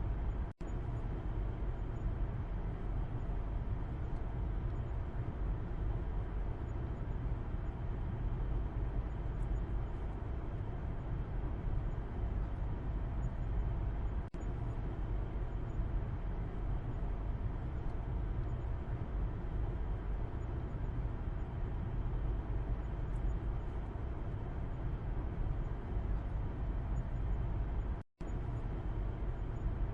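Car interior road noise heard from the back seat: a steady low rumble of tyres and engine with a softer hiss above it. The sound cuts out for a split second twice, once near the start and once near the end.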